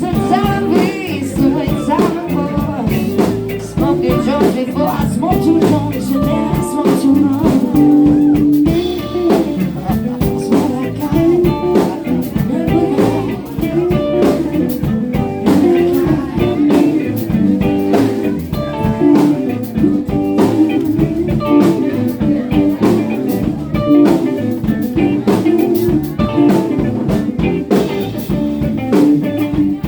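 Live band playing a bluesy groove, electric guitar over bass and drums.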